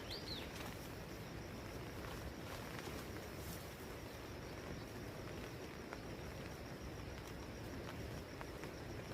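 Forest ambience: a steady, faint high insect trill over a low background hush, with a short falling bird chirp just after the start and a few light clicks.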